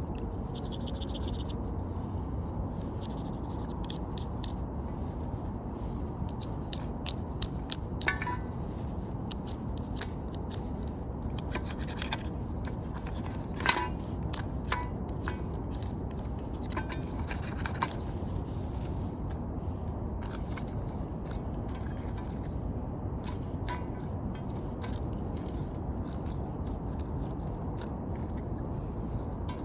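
Ferrocerium fire-starter rod being scraped with its striker, heard as scattered short scrapes and sharp clicks, the loudest about fourteen seconds in, over a steady low rumble.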